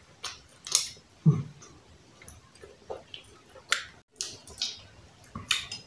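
Close-miked mouth sounds of eating roast turkey: wet lip smacks and chewing clicks at an irregular pace. A short low thump about a second in is the loudest sound.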